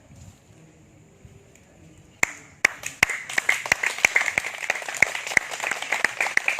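Audience applauding: a few single hand claps about two seconds in, quickly filling out into steady applause.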